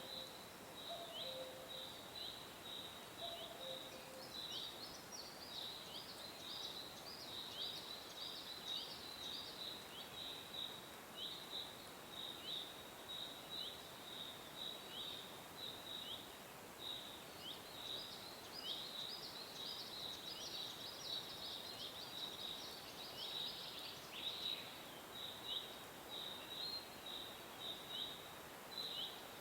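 Small birds chirping steadily, several quick high chirps a second, each dropping in pitch, over a faint hiss. A few low notes sound in the first few seconds.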